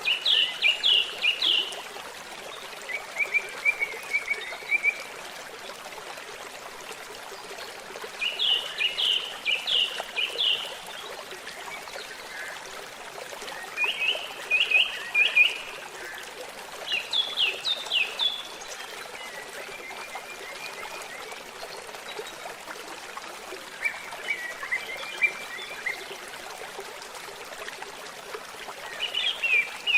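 Trickling, babbling stream running steadily, with a bird singing short phrases of quick repeated notes every few seconds over it.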